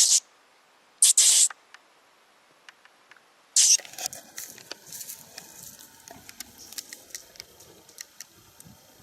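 Three short, harsh rustling bursts, then a steady run of small crackles and scratches, like something moving in dry leaves or brush.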